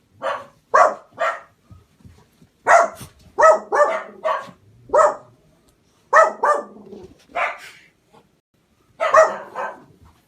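A dog barking repeatedly: short barks in four quick bouts, with brief pauses between them.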